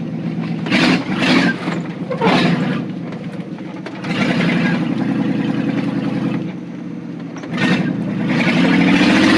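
1991 Chevy 1500 pickup's 4.3-litre V6 running under load while driving through mud. The engine revs up for a couple of seconds in the middle, eases off, then rises in pitch near the end. Several short bursts of noise come over it.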